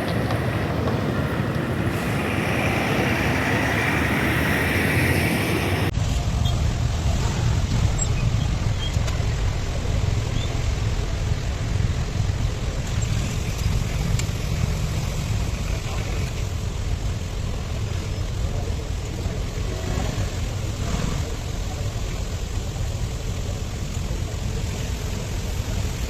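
Steady low vehicle rumble, loud throughout, with an abrupt change in the sound about six seconds in.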